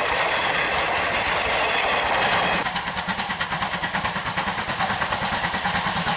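C12 66 steam tank locomotive working along the line. About two and a half seconds in, a steady rushing gives way to rapid, even exhaust chuffs, several a second, of a locomotive running hard.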